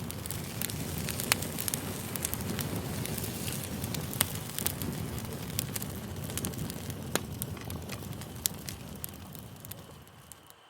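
Campfire crackling: a steady low rush of burning wood with sharp pops scattered through it, fading down and breaking off briefly near the end.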